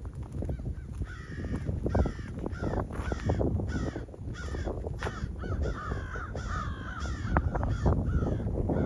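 Crows cawing in a rapid run of harsh calls, about two to three a second, from about a second in until near the end, over a steady low rumble.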